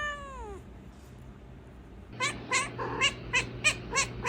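Pet cat meowing: one drawn-out meow that rises and falls in pitch, then, after a short pause, a quick run of short chirping meows, about four a second.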